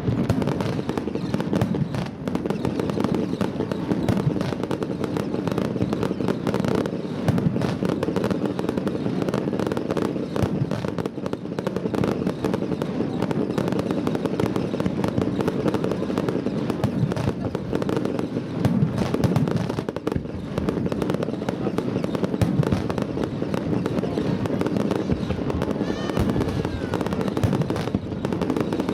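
Fireworks display: aerial shells bursting and crackling in a dense, unbroken barrage with no pauses between bursts.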